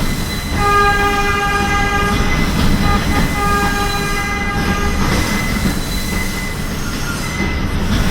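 Subway train running along the track with a steady rumble. Twice, a high-pitched squeal of steel wheels on the rails holds for about a second and a half, then fades to a faint ring.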